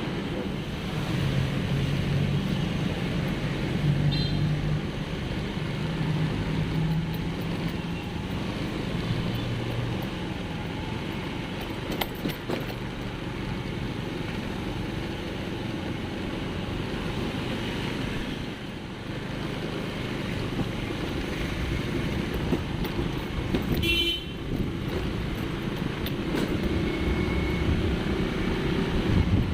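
Street traffic noise: vehicle engines running and passing steadily, with a brief high horn toot about four seconds in and another a little before the end.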